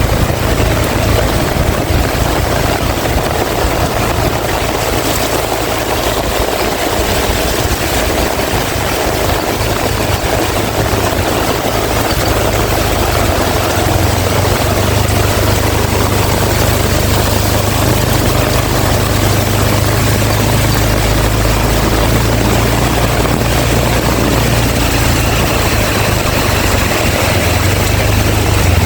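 Heavy rain falling in a steady hiss, with strong wind buffeting the microphone in a deep, uneven rumble.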